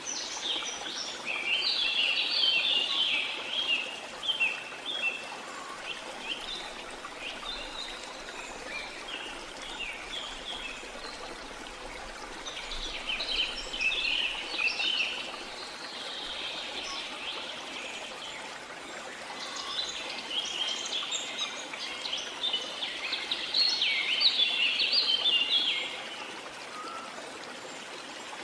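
Birds singing and chirping in busy bouts over the steady rush of running water, with quieter stretches of just water between the bouts.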